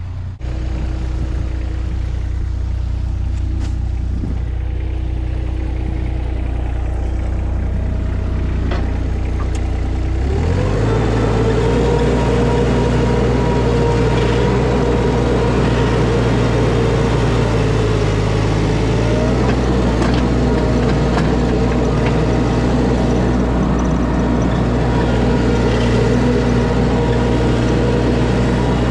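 Skid steer engine running at low revs, then throttled up about ten seconds in and running steadily at higher revs.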